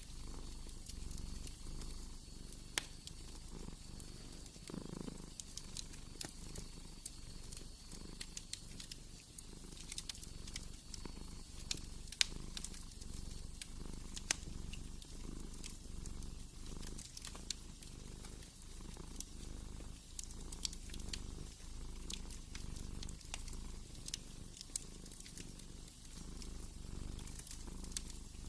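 Cat purring steadily, swelling and easing with each breath, with scattered crackles and pops from a wood fire.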